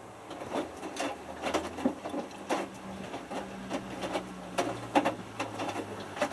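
Hotpoint Futura HF8B593 front-loading washing machine in its main wash: after a pause the drum starts tumbling about a third of a second in, the motor humming under irregular knocks and slaps of a small wet load of t-shirts dropping in the drum.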